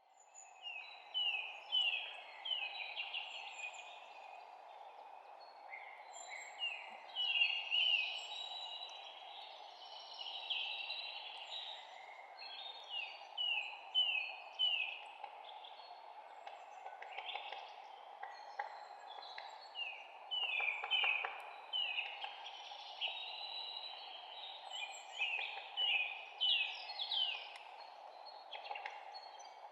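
Several songbirds chirping and singing, with repeated quick series of short falling chirps, over a steady background hiss.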